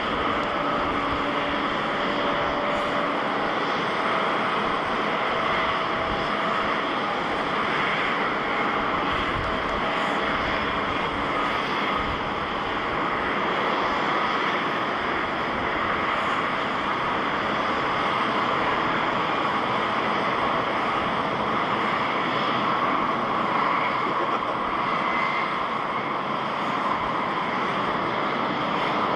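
Jet airliner's engines running, a steady, even noise with no rise or fall.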